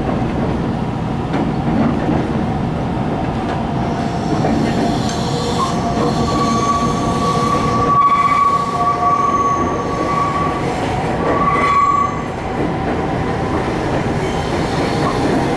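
Inside a suburban train carriage: the steady rumble of wheels running on the rails, with a high, steady wheel squeal for about five seconds from around six seconds in and again briefly near twelve seconds, typical of the wheels grinding through a tight curve.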